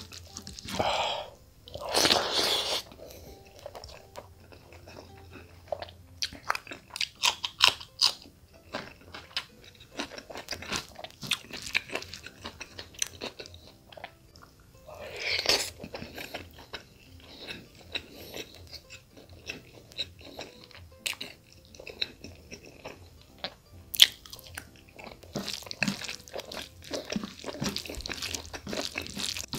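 Close-up eating sounds: chewing and crunching of chicken gizzards and rice, with wet mouth smacks and squishing as bare hands mix rice into gravy. The sounds are short and irregular, with louder bursts of chewing about two seconds in and again halfway through.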